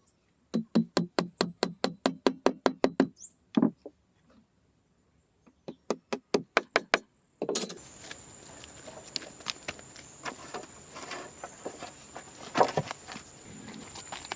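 Two quick runs of knocking strikes, about five a second, the first longer and the second shorter. About halfway through, a steady outdoor background with a high, steady insect drone takes over, with a few scattered small knocks.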